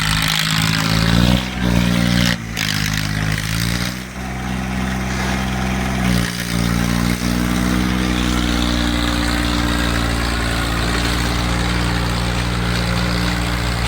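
Diesel tractor engines running hard under load in a tractor tug-of-war, pulling against each other through the hitch. The engine note dips and picks up a few times in the first six seconds, then holds steady at high revs.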